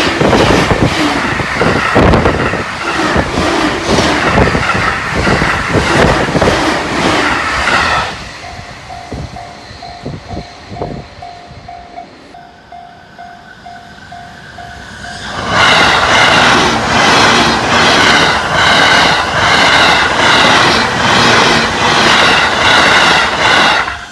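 A train passes a level crossing at high speed with a loud, rhythmic clatter of wheels over the rail joints. About 8 s in it is gone and a Japanese level-crossing warning bell rings in steady repeated dings. About 15 s in, a second high-speed train rushes through with the same clatter.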